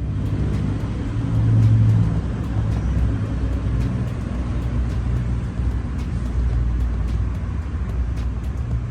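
A vehicle engine running steadily at a low, even pitch, swelling briefly about a second in.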